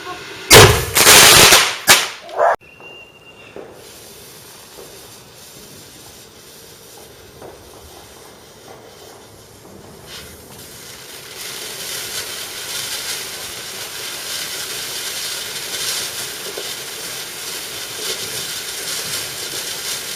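Fireworks: several very loud bangs and bursts packed into the first two seconds or so, which cut off abruptly. Then a quieter stretch that builds from about eleven seconds in to steadier, continuous firework noise.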